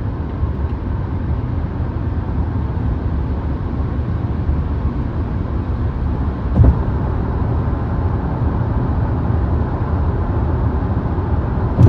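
Steady low driving rumble of road and tyre noise inside the cabin of a moving 2025 Volvo XC60 T8, with a single thump a little past halfway.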